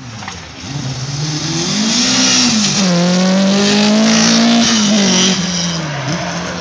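A drift car's engine revving hard while its tyres squeal. The engine note climbs, dips, then holds high for a couple of seconds with the squeal before both ease off about five seconds in.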